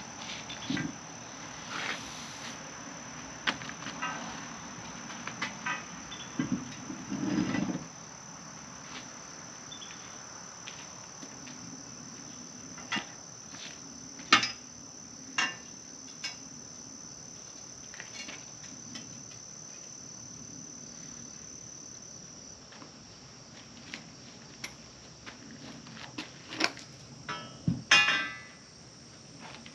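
Crickets chirping in one steady high trill that stops about two-thirds of the way through. Scattered clanks and knocks of metal tubing being fitted together sound over it, the loudest about halfway and near the end.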